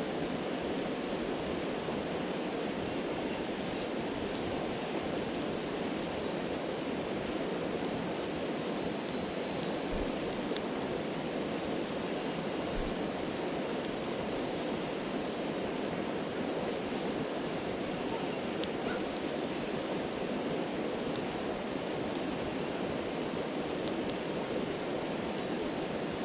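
A stream rushing steadily, with a faint crackle and pop from a campfire every few seconds.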